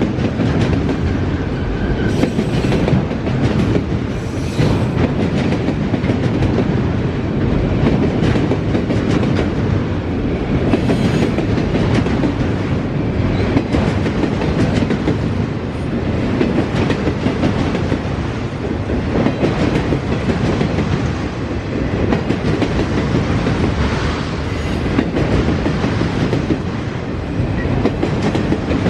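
Norfolk Southern freight train's cars rolling past close by: a steady loud rumble of wheels on rail with a continuous scatter of clicks and clacks from the wheels over the track.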